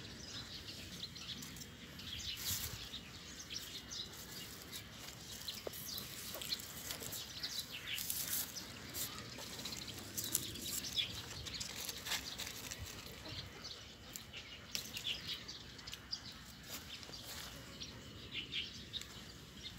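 Small birds chirping, with many short high calls scattered throughout over faint outdoor background noise.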